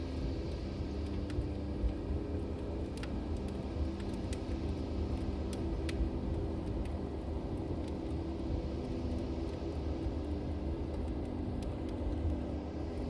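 Log fire burning in a fireplace: a steady low rumble of the flames with a few sharp crackles and pops scattered through it.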